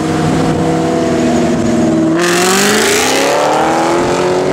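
2004 Ford Mustang SVT Cobra's supercharged 4.6-litre V8, breathing through a catless exhaust with bullet mufflers, running steadily, then accelerating hard about two seconds in, its engine note climbing in pitch.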